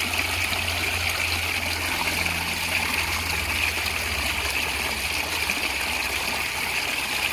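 A natural stream gurgling and flowing steadily, with a low steady rumble underneath.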